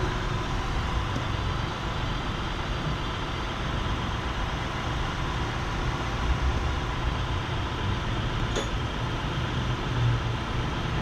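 2003 Acura TL's 3.2-litre V6 idling steadily, running smoothly with its cylinder 6 misfire repaired. A single short click about eight and a half seconds in.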